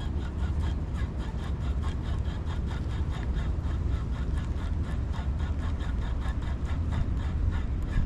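Fishing reel cranked steadily during a lure retrieve, a quick even ticking of about six a second, over a heavy low rumble of wind buffeting the microphone.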